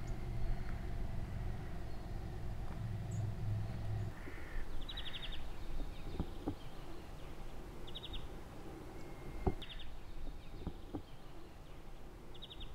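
Outdoor ambience with small birds chirping: short, rapid chirp trills come several times, a few seconds apart, with a few light knocks between them. A low rumble fills the first few seconds, then drops away.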